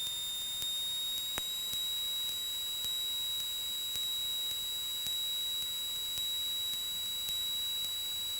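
A steady high-pitched electronic tone on the Cessna 172's cockpit intercom audio, with faint regular ticks about twice a second and one sharper click about a second and a half in.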